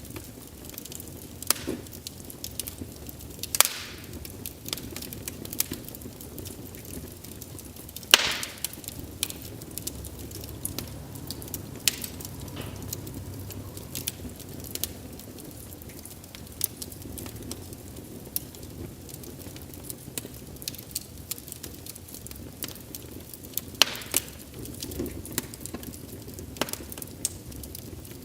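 Wood fire crackling and popping: a steady low rustle of flames with irregular sharp snaps, a few of them much louder, about 3.5, 8 and 24 seconds in.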